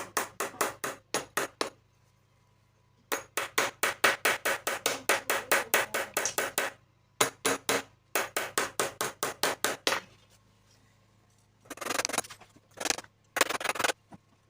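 Rapid light hammer taps, about seven a second, in several runs separated by short pauses: the radiator's metal header tabs being tapped back down to seal the plastic top tank. Near the end come a few rougher, scraping bursts of tool noise.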